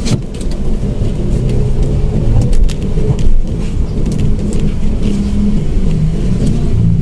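Mitsubishi Mirage manual car driving along, its engine and road noise heard from inside the cabin as a steady low rumble, with a few light clicks and knocks.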